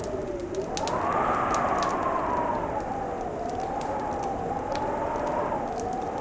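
Fireplace crackling with scattered sharp pops, under a howling winter wind whose whistling pitch slowly rises and falls.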